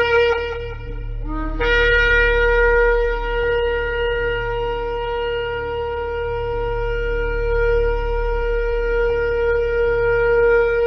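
Shofar blown: one blast ends about half a second in, then a brief lower note rises into a single long, steady blast held for about nine seconds. A steady low hum runs underneath.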